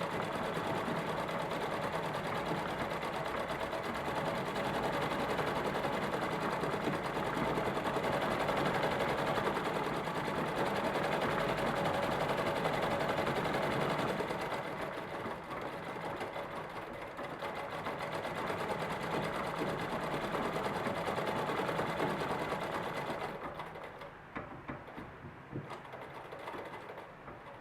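Minerva central-bobbin sewing machine stitching at a steady run during free motion embroidery. It eases off about halfway, runs again, then slows and stops near the end, leaving a few light clicks.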